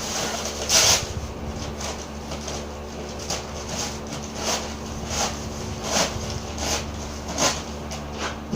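A series of short knocks or scrapes, roughly one a second, over a steady low hum.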